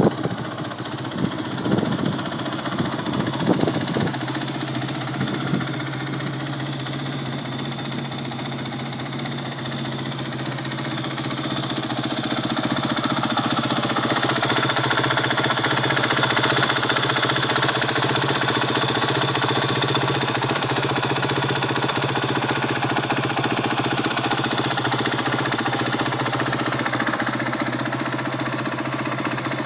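Honda CRF250X's single-cylinder four-stroke engine idling steadily. A few sharp irregular knocks sound in the first few seconds, and the idle grows louder about twelve seconds in.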